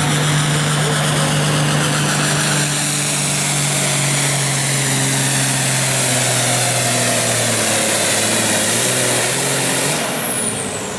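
Farm tractor's diesel engine running hard under load while pulling the weight sled. Its pitch sags slowly in the second half as it bogs down. Near the end it lets off, and the level drops with a high, falling whine.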